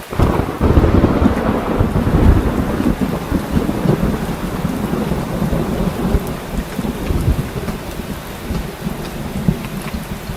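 Heavy rain falling steadily, with a long roll of thunder that breaks in just after the start, is loudest in the first couple of seconds and rumbles on, slowly fading.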